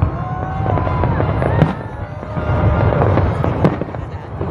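New Year's fireworks display going off in rapid succession: a continuous low rumble of booms packed with crackles and bangs, the sharpest bang about a second and a half in.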